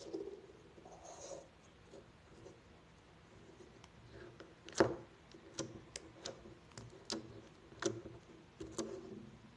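Slime being squished and poked, giving a soft squish near the start and then a string of sharp clicking pops, about seven in the second half.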